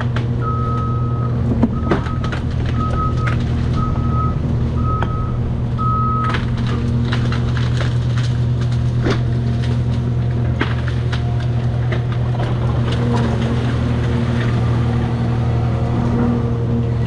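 Heavy diesel engine of a Cat 336 excavator running steadily. A backup alarm beeps about once a second, six times, and stops about six seconds in. Scattered sharp cracks and knocks sound over the engine.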